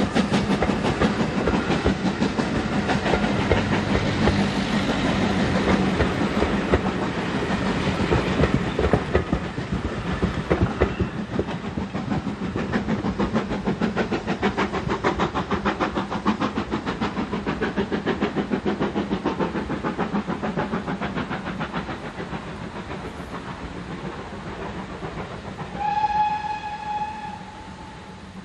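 Passenger train coaches rolling past, the wheels clicking rapidly over the rail joints, loud at first and then fading as the train pulls away. Near the end the distant locomotive's whistle sounds once, for about a second and a half.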